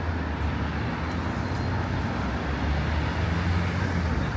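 Steady road traffic noise: a constant low rumble of passing cars.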